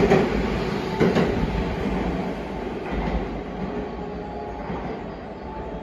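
JR West 287 series electric express train running through a station without stopping: wheels clack over rail joints at the start and about a second in, then its running noise fades steadily as it pulls away.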